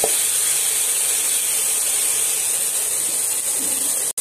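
Tomato-onion masala sizzling steadily as it fries in ghee in a non-stick pan, with a light tap of the spatula at the start; the sizzle breaks off for an instant near the end.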